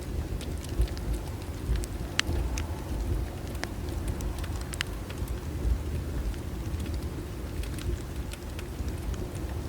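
Bonfire burning: irregular sharp crackles and pops, a few louder than the rest, over a steady low rumble.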